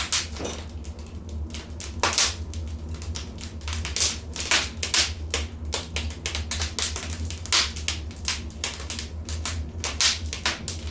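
Wood fire crackling and popping, a dense run of irregular sharp snaps over a steady low rumble.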